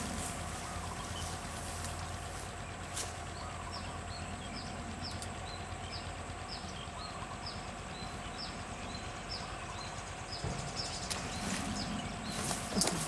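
A small bird calling with short, high, falling chirps, about two a second, starting a few seconds in and running on over faint outdoor background. A louder bump and rustle comes near the end.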